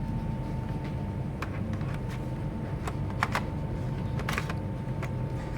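Scattered small clicks and taps of laptop parts and tools being handled, a few sharp ones about halfway through, over a steady low hum with a faint whine.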